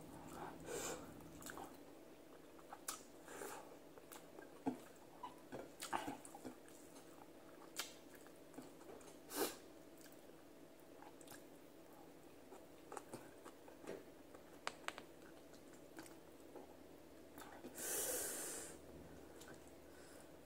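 Soft mouth sounds of a person eating with her fingers: scattered chewing clicks and lip smacks, with one breathy rush of noise lasting about a second near the end.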